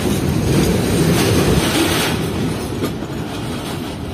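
Freight train running, heard from inside its guard van: a steady rumble of the wagons with wheels clacking over the rail joints, easing off a little about halfway through.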